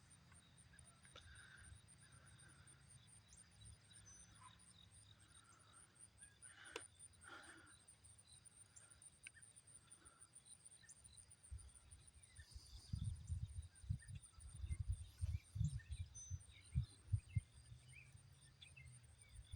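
Quiet outdoor ambience: insects trilling steadily in rapid, high-pitched pulses, with a few faint bird chirps. In the second half, gusts of wind rumble on the microphone.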